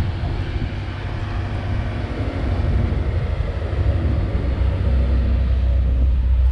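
Low, steady car engine rumble that grows louder in the second half.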